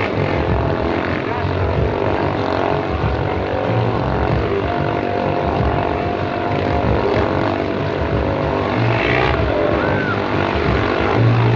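Four motorcycles riding together inside a steel-mesh globe of death, their engines running loud and unbroken as they circle. A few short whistle-like rising-and-falling tones sound over the engines near the end.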